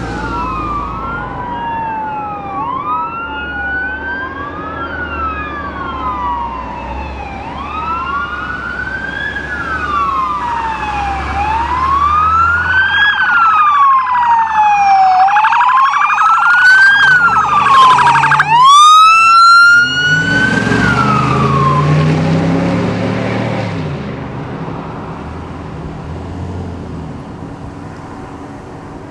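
Emergency vehicle's electronic siren wailing up and down, with a second fast-pulsing siren tone joining partway through and a very loud horn-like blast about two-thirds in. It grows louder as the vehicle approaches, then fades as it passes with its engine rumbling.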